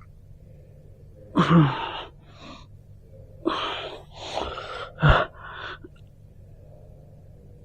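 A person breathing hard: about six short, breathy gasps and exhales in quick succession, the first with a brief low groan.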